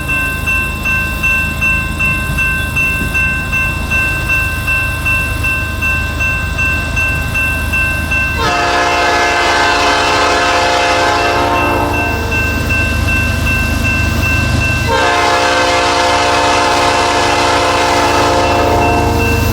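Freight train rumbling past with a regular rhythmic clatter, then a diesel locomotive horn sounding two long blasts: one about eight seconds in lasting some three seconds, and a second starting about fifteen seconds in and still sounding at the end.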